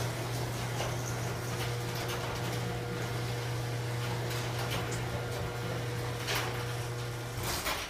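Craftsman half-horsepower chain-drive garage door opener running as it closes the door: a steady motor hum with clicks and rattles from the chain and door. It stops suddenly near the end as the door comes down.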